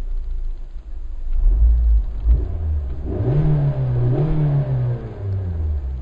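The 2014 Suzuki Swift Sport's 1.6-litre four-cylinder engine idling smoothly, then revved twice in quick succession about three seconds in and dropping back to idle.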